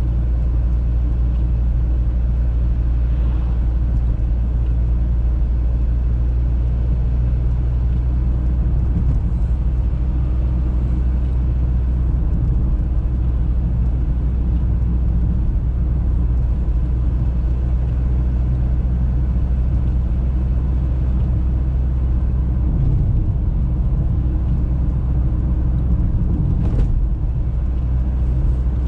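Audi A3 on the move: a steady low rumble of engine and road noise, with a brief knock near the end.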